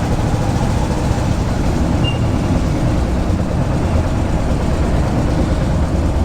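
Steady low engine rumble with a hiss over it.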